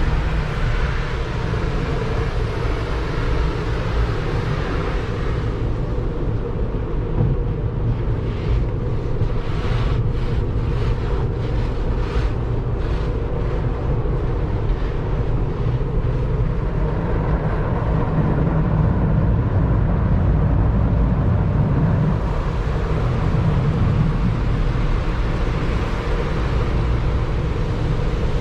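Automatic car wash heard from inside the vehicle's closed cabin: a steady low rumble of machinery and water on the body. A run of quick, irregular swishes comes about eight to fourteen seconds in.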